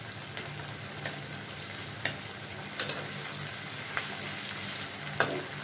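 Onion, tomato, garlic and green chillies sizzling in hot oil in a kadai, with about five sharp clicks as the spatula works the pan.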